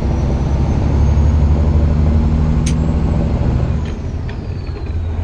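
Semi truck's diesel engine pulling hard under a heavy load, a steady low drone whose note drops off about four seconds in. The turbo is slow to build boost, which the driver blames for the truck's lack of pull.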